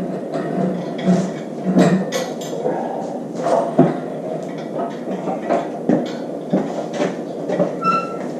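Irregular metal clanks and knocks from tools and metal parts being handled during an engine removal, over a steady low hum. Near the end there is a short ringing metallic clink.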